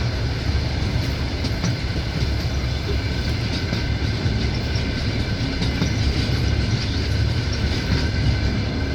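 Passenger train running, heard from inside the carriage: a steady low rumble of the wheels on the rails, with a few faint clicks.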